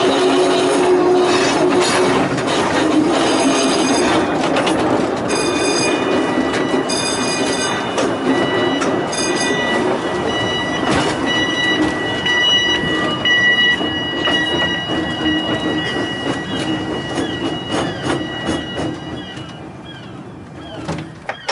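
Volk's Electric Railway car running along its narrow-gauge track, its wheels squealing in two steady high tones from about six seconds in. The running sound dies away near the end as the car slows to a stop.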